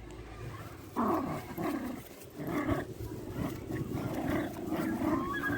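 Dogs growling and vocalising in a run of short, uneven bursts that start about a second in.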